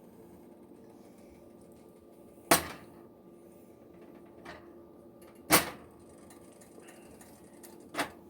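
Three sharp knocks about three seconds apart, with a fainter one between the first two, over a low steady hum; kitchen handling sounds such as utensils, cookware or a cupboard.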